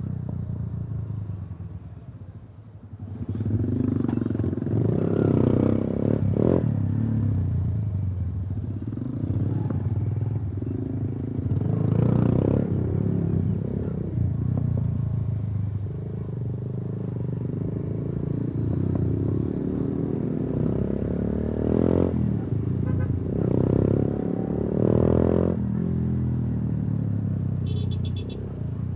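Yamaha YBR 125G's single-cylinder four-stroke engine through an Akrapovič exhaust, heard from the rider's seat on the move. The revs drop briefly about two seconds in, then climb and fall again several times as the bike accelerates and eases off.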